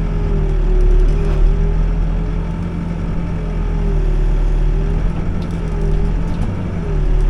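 Backhoe's diesel engine running steadily with a whine that wavers up and down in pitch as the machine works; a few faint knocks come about five to six seconds in.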